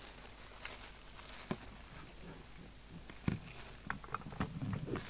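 Small clicks and knocks of a coffin microphone's plug and cable being handled and pushed into a CB radio's mic socket, sparse at first and coming thicker near the end.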